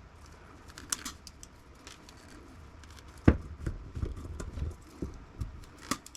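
Small clicks and knocks of hard plastic and metal parts being handled and pried apart as an air conditioner's power-cord plug is dismantled, with one sharp louder knock about three seconds in.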